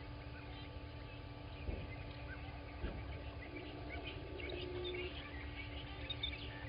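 Morning birds calling: many short high chirps and calls, busier in the second half. A steady low hum runs beneath them, and there are two brief knocks about two and three seconds in.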